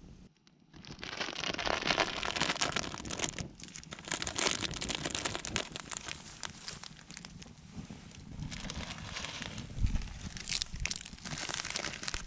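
Campfire crackling and popping densely and irregularly, with a low thump about ten seconds in.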